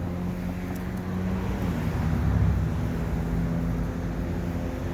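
Motor vehicle engine idling steadily with a low hum, its pitch shifting slightly about a second and a half in.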